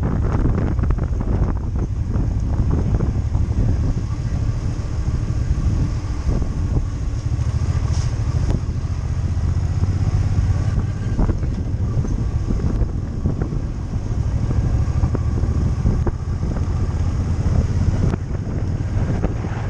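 Wind buffeting a helmet-mounted microphone on a moving motorcycle, a steady low rumble, with the motorcycle engine running faintly beneath it.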